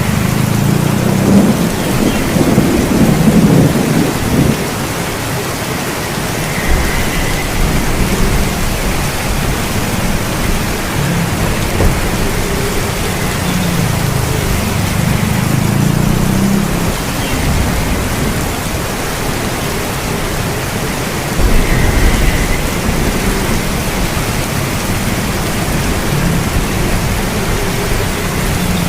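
Steady heavy rain with low rolls of thunder, the loudest rumbles coming about one to four seconds in and again past the twenty-second mark.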